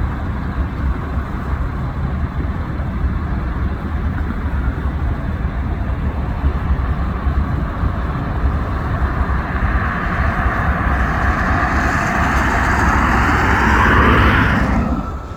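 Cabin noise of an Embraer E175 airliner landing in heavy rain: a steady deep rumble of engines and airflow, with a roar that builds from about ten seconds in and falls away sharply near the end.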